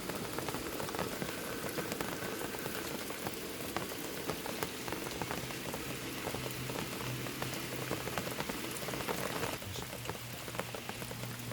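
Bacon sizzling and crackling in a non-stick frying pan, a dense patter of fine pops.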